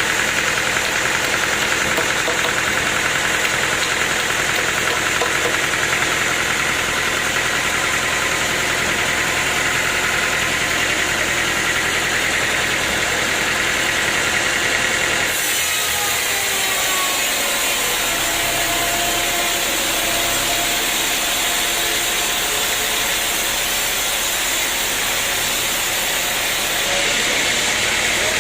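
Sawmill machinery running steadily, an engine-like drone with a high hiss. About halfway through the sound changes suddenly and the deep rumble drops away, then changes again near the end.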